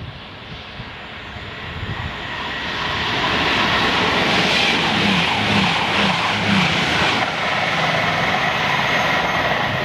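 Class 222 Meridian diesel multiple unit passing through a station at speed: its engine and wheel-on-rail noise build up as it approaches, stay loud and steady as it runs past with a few quick thumps midway, and ease slightly near the end.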